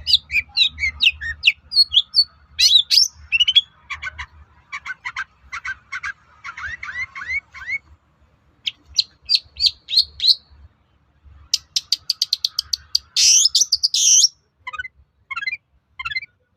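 Long-tailed shrike singing a fast, varied song of sharp chirps and rapid trills, broken by short pauses, with a harsh rasping burst a little after halfway.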